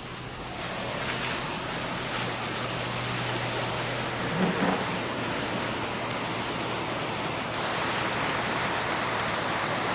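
Steady rushing water noise during flooding.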